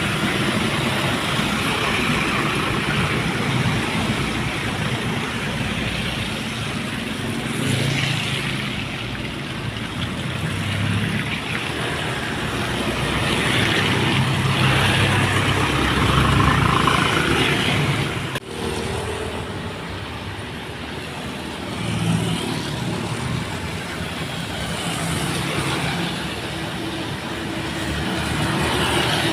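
Heavily loaded dump trucks driving past on a wet road: diesel engines running under load with tyre noise from the wet surface, swelling to loudest a little past halfway. There is a brief drop-out soon after.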